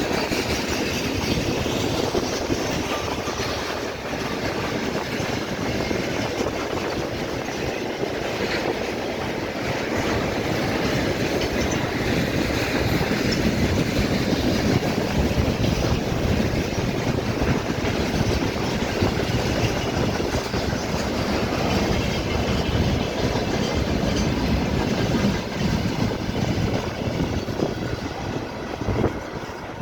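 A train running past on the rails with continuous wheel-on-rail noise, growing a little louder about ten seconds in.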